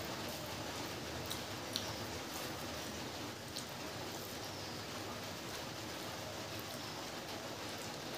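Steady hiss of light rain falling, with a few faint clicks as fingers mix rice and food on a steel plate.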